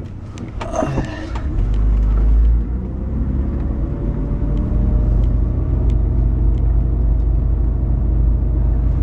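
Car pulling away and accelerating, heard from inside the cabin: after a few knocks in the first second, the engine and road rumble come up loud about 1.5 seconds in, with a faint whine that slowly rises in pitch.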